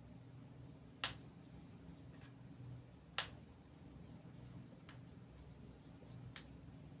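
A few sharp clicks or taps over a low steady hum: two louder ones about two seconds apart, then two fainter ones.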